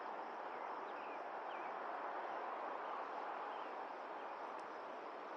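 The Colorado River rushing: a steady, even rush of water, with a few faint bird chirps over it in the first couple of seconds.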